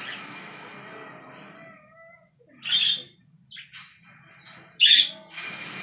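Pet birds calling: two short, loud, shrill calls, one a little under three seconds in and one near five seconds, with softer chirps and faint whistles between them.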